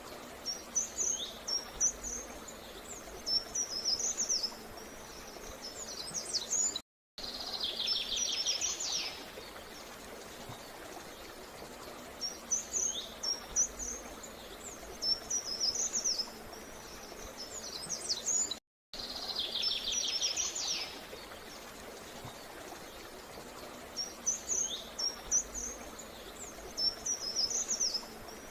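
Small birds singing in short, high chirping phrases over a steady background hiss, with a rapid trill now and then. The same stretch of recording repeats about every twelve seconds, each repeat set off by a brief dropout to silence.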